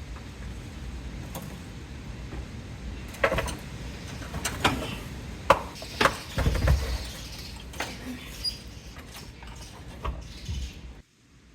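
Sharp metallic clunks and knocks, with a heavier low thump about six and a half seconds in, as a transmission on a jack is worked back and off the engine. The sound cuts off suddenly near the end.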